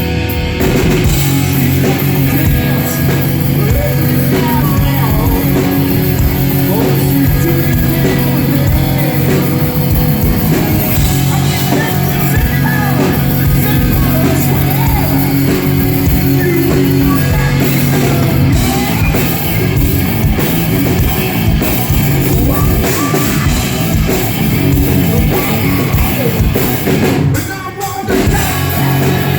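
Live hard rock band playing: drum kit, distorted electric guitar and a singer, loud and steady, with a brief break in the music near the end.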